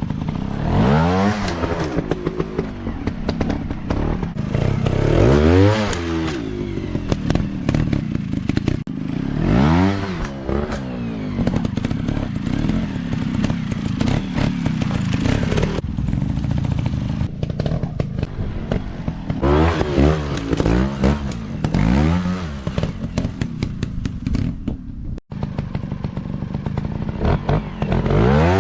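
Dirt bike engines revving up and easing off again and again, each rev a rising then falling pitch.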